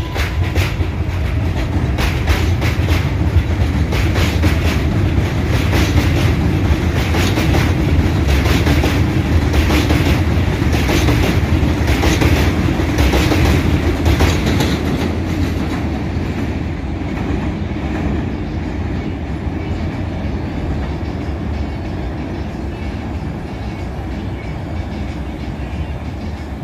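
R188 subway train on the 7 line running along the track, with a dense, fast rattle of wheel clicks over the rail joints above a low rumble. It is loudest in the middle and fades away over the last ten seconds.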